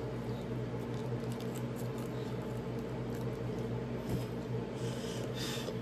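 Person chewing a mouthful of chicken wing with the mouth closed: soft wet mouth clicks, with a short louder smack about five seconds in, over a steady low hum.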